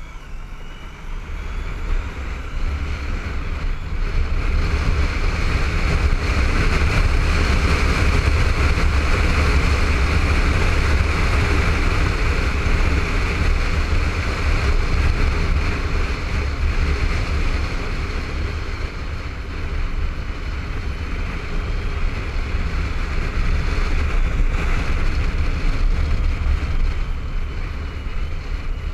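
Wind rushing over a helmet-mounted camera along with the Honda ST1300's V4 engine, as a motorcycle rides at road speed. It grows louder over the first five seconds or so, then holds steady with a few small dips.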